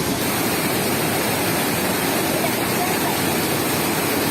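Floodwater of a swollen river rushing, a steady loud wash of noise.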